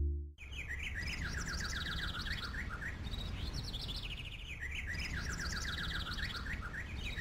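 Birdsong: a songbird's fast chirping trills, starting about half a second in and repeating in phrases every few seconds over a steady low background noise.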